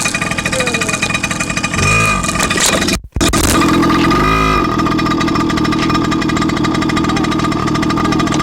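Motorcycle running steadily while being ridden, with a steady whine and a rapid fluttering, and the sound cuts out abruptly for a moment about three seconds in.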